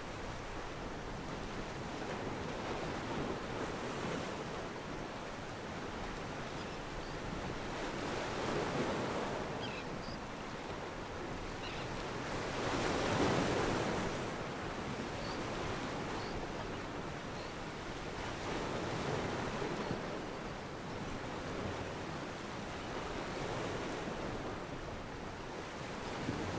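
Wind and water noise outdoors by the harbour: a steady rushing that swells and eases every few seconds, loudest about halfway through.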